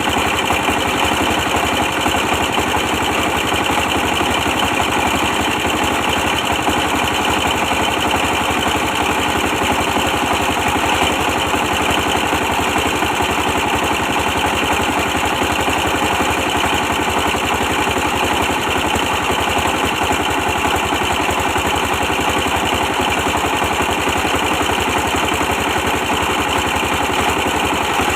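Old 24 hp stationary diesel engine running steadily at a constant speed while it powers a brick press machine.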